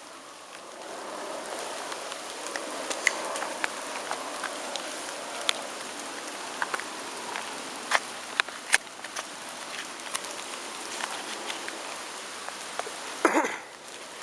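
Small ground firework fountain burning: a steady spraying hiss that builds up in the first second or two, dotted with sharp crackles and pops. A brief louder burst comes shortly before the end.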